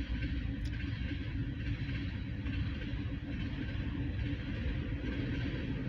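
Freight cars of a passing CSX mixed freight train rolling by on the rails: a steady rumble of wheels on track.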